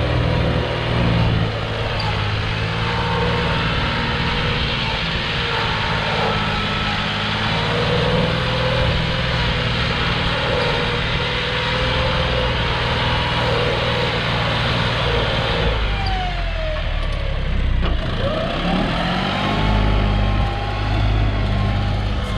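John Deere 5065E tractor's diesel engine running steadily. Its pitch dips about two-thirds of the way through, then rises again.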